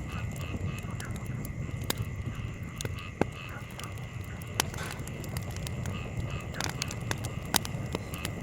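Wood campfire burning, with scattered sharp crackles and pops, a few of them louder, over a low steady rumble of breeze.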